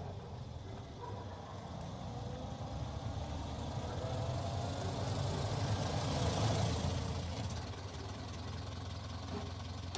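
Early open-top motor car's engine running as it approaches, growing louder to a peak about six and a half seconds in, then settling back to a steady, lower running sound.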